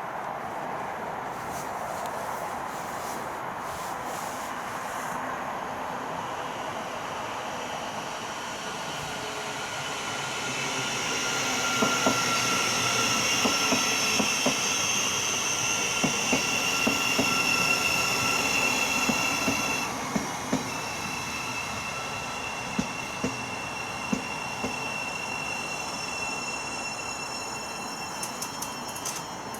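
A passenger train passing through the station: the rumble grows over the first ten seconds or so, with a steady high-pitched wheel squeal and wheels clicking over rail joints at its loudest, then eases off about two-thirds of the way through.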